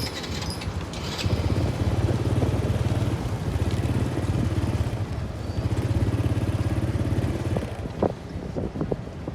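Small engine running with a rapid, even firing beat. It grows louder about a second in and drops away near the end.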